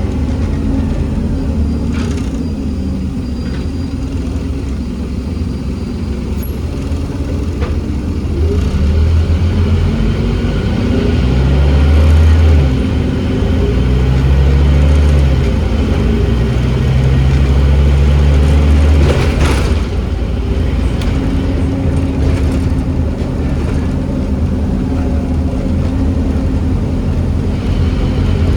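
Scania N270UD OmniCity double-decker bus's diesel engine pulling under load. About a third of the way in the automatic gearbox kicks down and the engine runs harder and louder, stepping through gear changes, then eases back about two-thirds of the way through.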